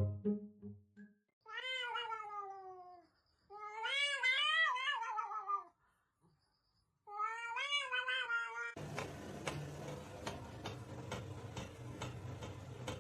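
A cat giving three long, drawn-out meows, each rising and then falling in pitch. About nine seconds in, the sound cuts to a steady low hum with regular ticking.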